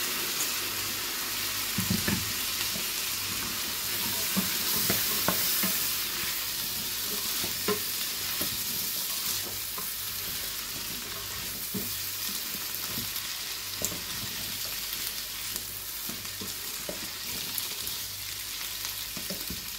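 Diced potatoes sizzling in a stainless steel pot with caramelised onions, stirred with a wooden spatula that scrapes and knocks lightly against the pot. The sizzle is steady.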